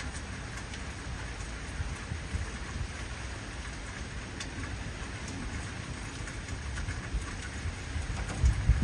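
Heavy rain falling steadily, with low thunder rumbling that swells near the end.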